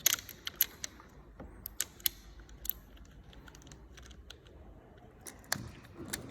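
Irregular light clicks and taps of small hard parts being handled and fitted together, a few close together in the first three seconds and another about five and a half seconds in.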